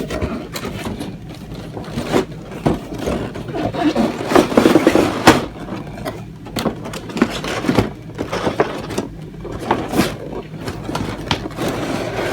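Box packaging being pulled apart and handled: repeated scraping and rubbing with many short clicks and knocks, busiest about four to five seconds in.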